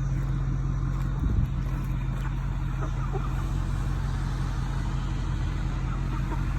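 Vehicle on the move: a steady engine hum and road noise, with a single thump about a second in.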